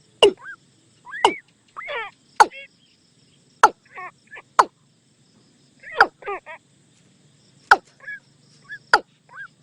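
Watercock calling: sharp clicking notes mixed with short, croaking calls that bend in pitch, repeated at irregular intervals of about a second.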